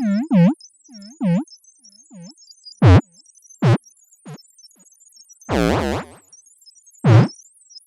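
Synthesized R2-D2-style robot beeps and chirps: a quick run of short blips that dip and rise in pitch, then single sharp sweeping chirps, with a longer warbling one about five and a half seconds in.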